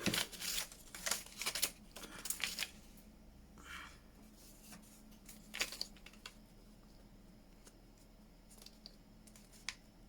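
Paper being handled and rubbed on a craft table: a run of quick rustling, swishing strokes in the first few seconds, another short flurry around the middle, then only a few light clicks.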